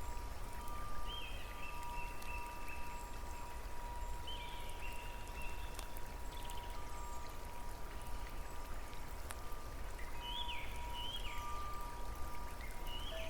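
Steady rain with drops pattering, joined several times by short chirping calls and a faint steady high tone.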